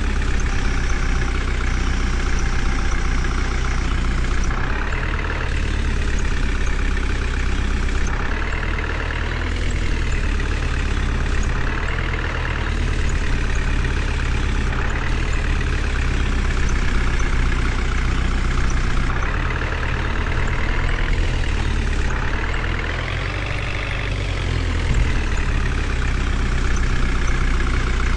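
Heavy vehicle engine running steadily, its pitch rising and falling every few seconds as the throttle changes, with a longer rise and fall near the end.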